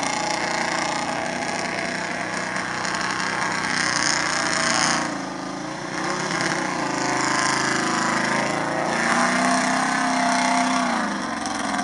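Old 4x4 truck engine revving hard under load, its pitch rising and falling as the throttle is worked. It eases off about five seconds in, then climbs again.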